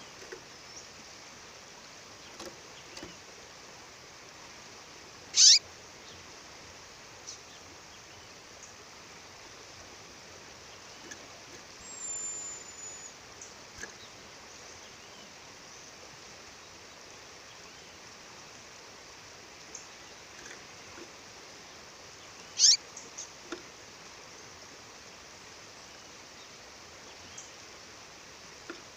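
A female songbird calling: two loud, short calls, each sweeping sharply down in pitch, about seventeen seconds apart, with a few faint chirps between. Under them is the steady rush of a waterfall.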